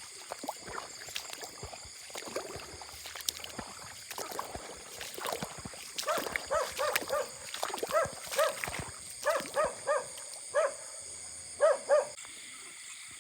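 Short pitched animal calls, quickly repeated in groups of two to four, starting about six seconds in, over a steady high-pitched background hum.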